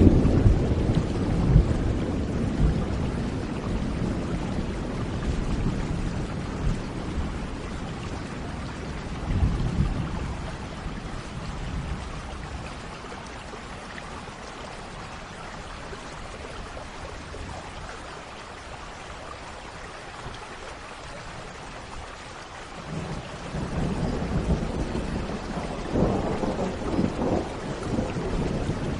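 Thunderstorm: steady rain with rolling thunder. A long roll of thunder fades away over the first ten seconds or so, and another rumble builds about three quarters of the way through.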